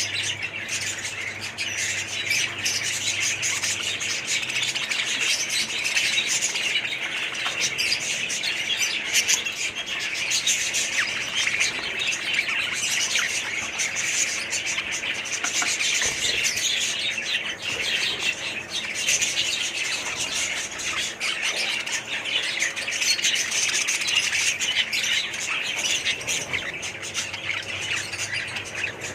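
Many budgerigars chirping and chattering together, a dense, unbroken chorus of overlapping calls.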